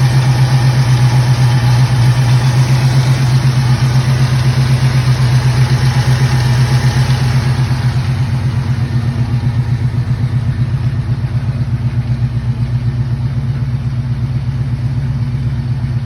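Modified Pontiac 400 V8 idling with a steady, pulsing exhaust note; about halfway through it becomes a little quieter and duller.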